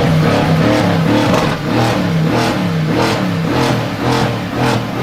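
Mercedes car with a very loud exhaust being revved in quick, even blips, a little under two a second, the engine note rising and falling with each one.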